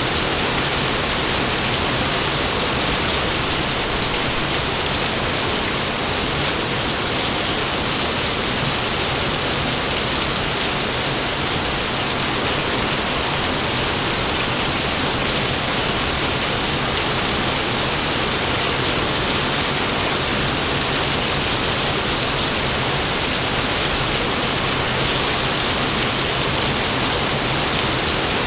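Heavy rain falling steadily, a dense, even downpour hiss.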